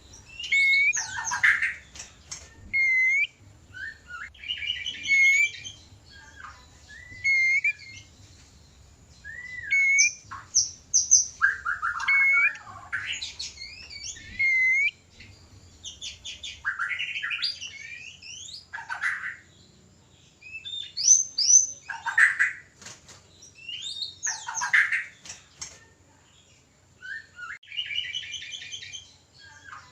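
White-rumped shamas singing and calling in breeding condition. Short bursts of clear upslurred whistles, fast trills and harsh chattering calls follow one another with brief pauses.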